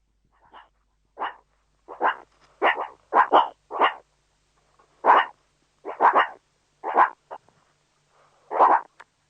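Dog barking repeatedly: about a dozen short barks in uneven runs, some in quick pairs, with brief gaps between.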